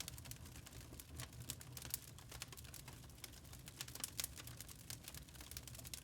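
Wood burning in a log fire, crackling: a dense run of irregular sharp pops and snaps over a low, steady rumble.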